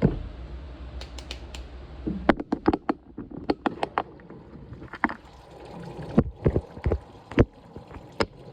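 Washing machine's low steady hum cuts off about two seconds in, followed by a run of short clicks and knocks from its controls being pressed repeatedly.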